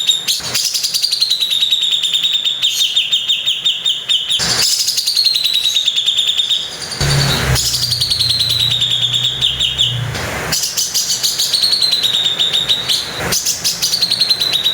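Cucak jenggot (grey-cheeked bulbul) giving harsh, rattling 'tembakan' phrases again and again, each a fast run of coarse notes about two seconds long. A low hum runs under the song for a few seconds in the middle.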